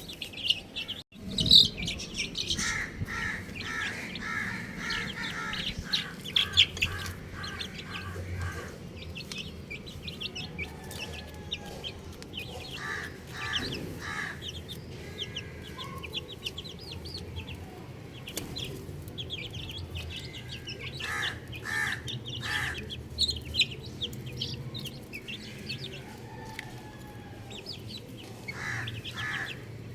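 Baby chicks peeping with many short high chirps throughout, while an adult chicken clucks in short runs of repeated calls several times. A brief loud sound stands out about a second and a half in.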